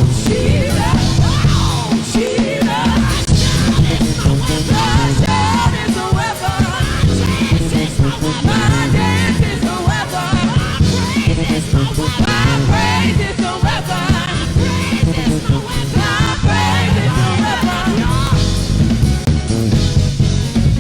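Church worship band playing an upbeat song with drum kit and bass, voices singing and ad-libbing over it. The singing thins out near the end, leaving mostly the band.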